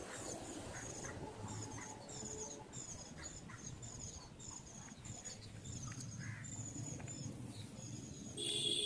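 Outdoor sound played at about triple speed: short, high, squeaky chirps repeating several times a second, bird calls raised in pitch by the speed-up, over a low rumble. Music starts near the end.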